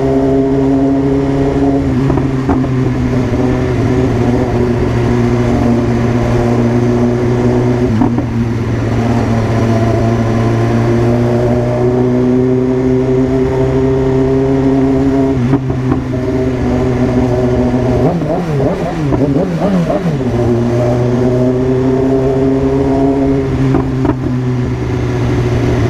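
BMW S1000RR sport bike's inline-four engine running at a steady pace, its note holding roughly level with short breaks about 8 and 15 seconds in and a brief wavering of pitch around 18 seconds in.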